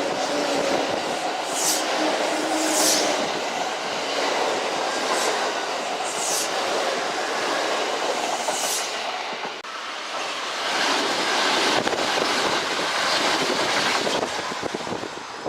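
Kintetsu electric train running past on the rails, a steady loud rumble with wheel clatter and several brief high squeals. It cuts off suddenly at the end.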